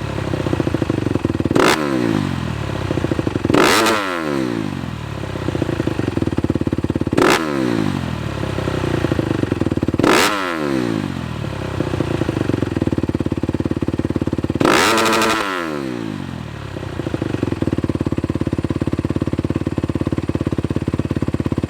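2017 Honda CRF250R's single-cylinder four-stroke engine through a full titanium Yoshimura exhaust, blipped five times, each rev quickly falling back to idle, the last one held a little longer. It then settles into a steady idle.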